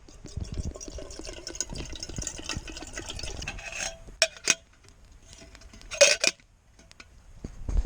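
Camp cookware being handled: a few seconds of crackly liquid and scraping noise with small clicks, a couple of sharp clicks, then one loud ringing metal clink about six seconds in.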